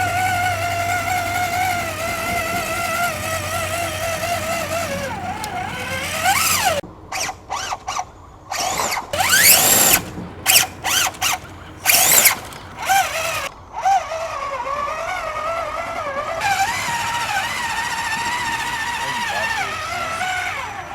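Electric motor and gear drive of an RC rock-crawler truck whining, its pitch wavering with the throttle. Midway it goes stop-start in short sharp bursts, some sweeping up in pitch, before it settles back into a steady whine.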